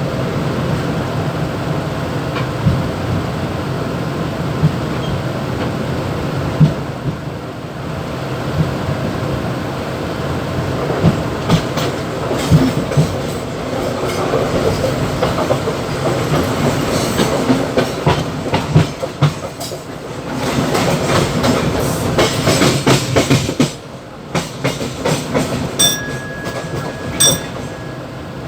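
Mumbai local EMU electric train running, heard from the motorman's cab: a steady low hum with clicking and clatter over the rails, heaviest in the middle, and the cab rattling and shaking. A few short high beeps near the end.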